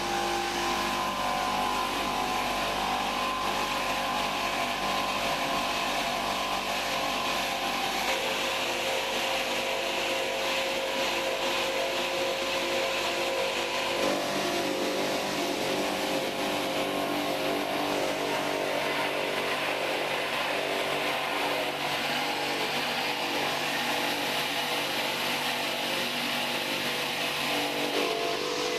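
Workshop machinery running steadily with a mix of motor hum and whine, the pitch shifting abruptly a couple of times.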